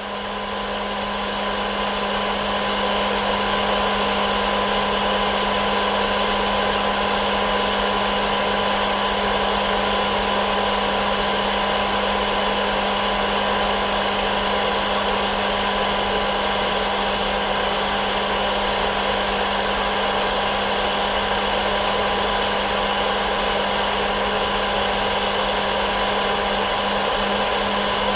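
Hair dryer running continuously: a steady rushing noise with a constant motor hum, swelling up over the first couple of seconds and then holding level.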